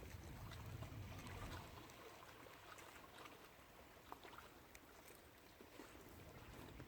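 Faint water lapping with small scattered ticks and trickles, over a low rumble that is strongest in the first couple of seconds.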